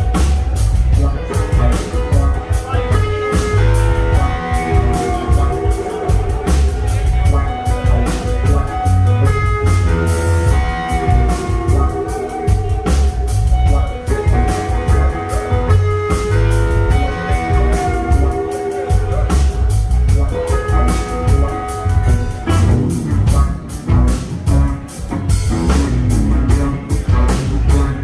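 Live blues band playing an instrumental passage, with drum kit and bass keeping a steady beat and guitar playing over held notes.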